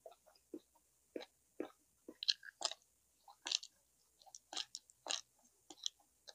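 A person chewing and eating food: irregular wet smacks and clicks of the mouth, a few a second, the loudest ones between about two and three and a half seconds in and again around five seconds.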